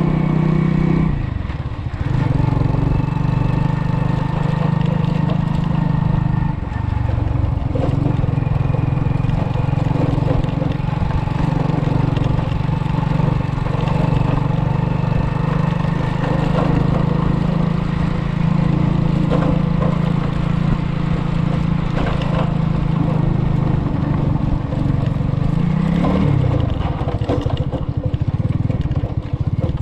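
Car engine running on the move, a steady low drone. Its pitch drops sharply about a second in, shifts again around six seconds, and rises then falls near the end.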